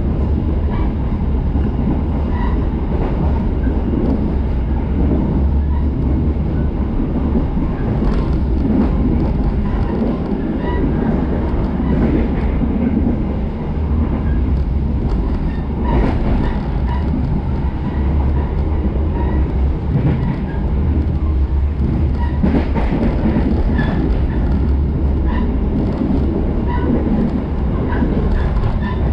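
A moving train heard from aboard: a steady low rumble of wheels running on the rails, with a few sharper knocks now and then from the track.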